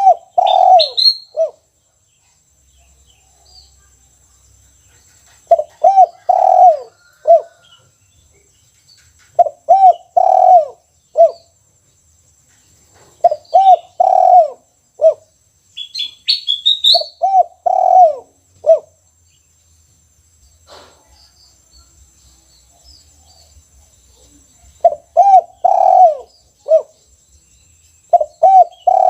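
Caged spotted dove (tekukur) cooing the 'kuk 1' song: repeated phrases of several low coos, one phrase about every four seconds, with a longer pause in the middle. Brief high chirps sound near the start and about halfway through.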